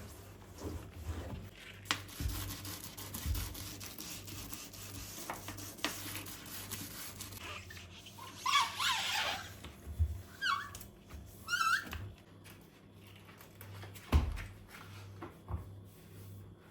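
Household cleaning sounds: rubbing with scattered light knocks and clicks, and a few short squeaky chirps about halfway through.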